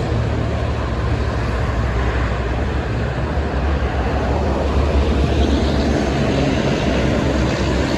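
Steady low rumble of heavy highway traffic with trucks passing.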